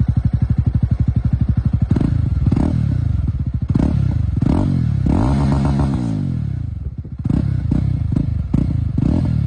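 Jawa motorcycle's 334cc liquid-cooled single-cylinder engine idling with an even, quick thump, then blipped repeatedly from about two seconds in. Each throttle blip rises and falls quickly, and one rev is held longer around the middle.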